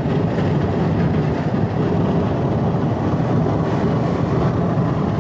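Car driving at highway speed: steady road and wind noise.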